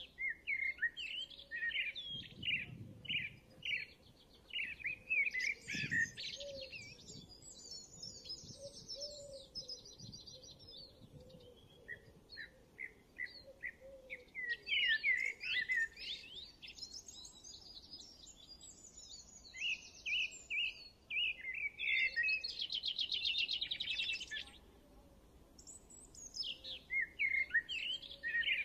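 Small birds chirping and singing in runs of quick high chirps, with two stretches of fast trilling, one about a third of the way in and one past the middle.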